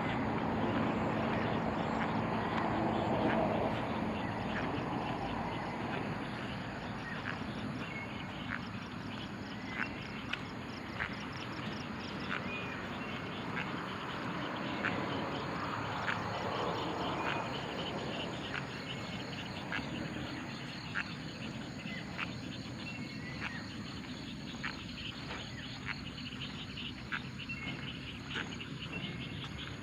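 Outdoor ambience of short, sharp animal calls repeating about once a second over a faint, steady high buzz. A low hum fades out in the first few seconds.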